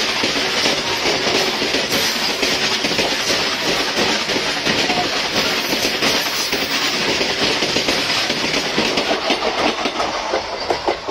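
Freight train of open steel wagons rolling past close by: a steady loud rumble with a dense clatter of wheels over the rail joints. Near the end the brake van at the tail goes by and the noise begins to fall away.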